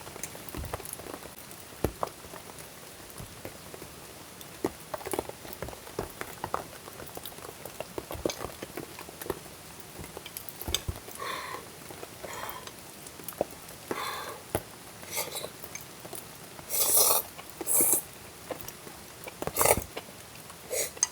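Camp cooking sounds: food sizzling lightly in a pan, with scattered clinks, taps and scrapes of utensils. A few louder scraping clatters come near the end, all over a steady background hiss.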